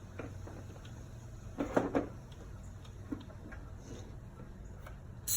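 Small clicks and knocks of hand tools and engine parts being handled, with two louder knocks about two seconds in and a sharp click near the end, over a steady low hum.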